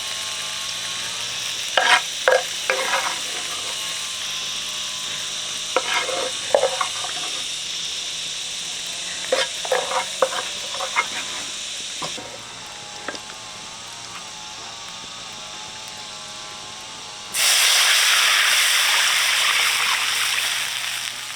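Food frying and sizzling in a pan, stirred with a utensil that clicks and scrapes against it in short bursts. Near the end the sizzling jumps suddenly to a much louder hiss, then eases off.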